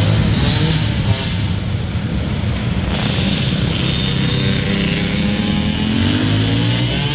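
450cc four-stroke sport ATV engines racing, revving up and down through the gears, with a long rise in pitch near the end.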